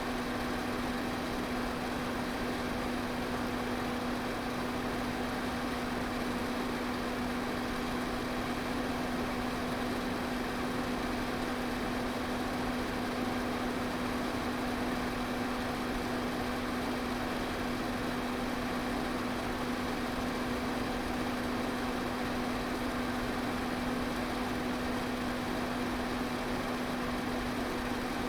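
Electric fan running steadily: a constant rush of air over a steady low motor hum.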